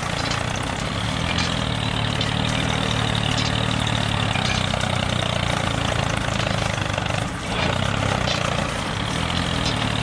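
A motor running steadily with a low drone, dipping briefly about seven seconds in.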